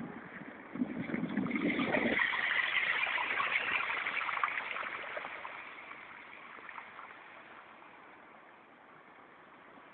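Rushing, splashing floodwater that swells about a second in and fades away over the second half.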